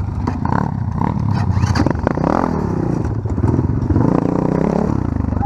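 Off-road vehicle engine revving up and down as it is ridden, with clattering from the machine over rough ground.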